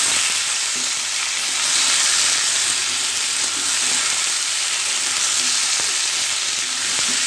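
Cubes of potato and yam frying in hot oil in a kadai, a steady sizzle, while a spatula turns them over.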